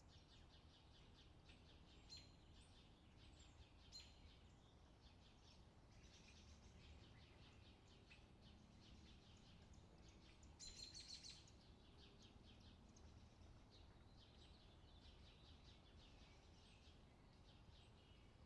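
Faint outdoor summer ambience: small birds chirping and twittering continuously over a low steady background rumble, with a brief louder burst of chirping about 11 seconds in.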